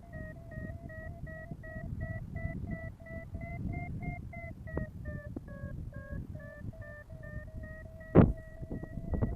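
Paragliding variometer beeping in short, evenly spaced pulses of about two or three a second, its pitch dipping slightly midway and rising again; a vario beeps like this when the glider is climbing in lift. Wind rumbles on the microphone underneath, with a loud gust buffet about eight seconds in.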